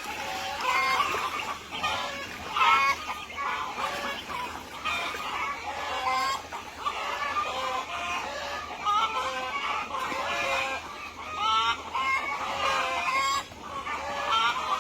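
A flock of chickens clucking, many short calls overlapping one another without a break.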